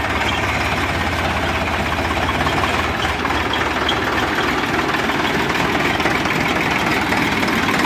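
Heavy diesel engine running steadily at a constant speed, with an even low pulsing throb.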